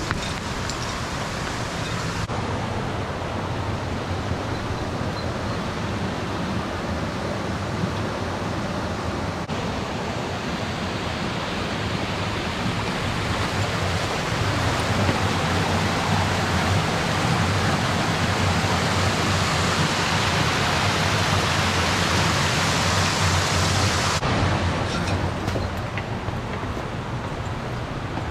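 Steady rush of water in a mountain stream, an even, unbroken noise that shifts slightly in tone about two seconds in and again near the end.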